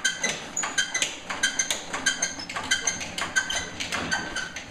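Old Lister Petter diesel generator being turned over with its compression release open, giving a rhythmic metallic clinking in pairs about every two-thirds of a second; the cold engine does not fire.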